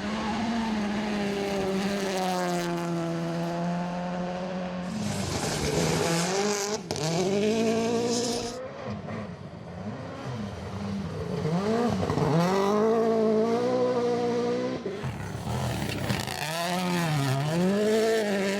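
Rally car engines at full effort, revving up and dropping back again and again through gear changes and throttle lifts. About five seconds in there is a few-second rush of hissing noise.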